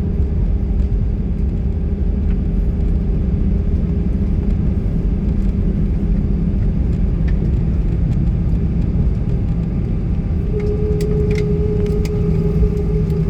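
Airbus A319 cabin noise during landing: a steady, loud low rumble of the engines and the aircraft moving, with a steady hum joining during the last few seconds.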